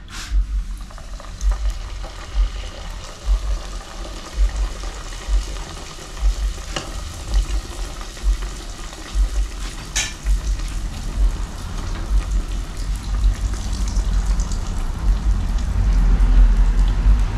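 Aloo pie dough frying in hot oil in a cast-iron pot, a steady sizzle, with a few sharp clicks of a metal ladle against the pot and low thuds underneath.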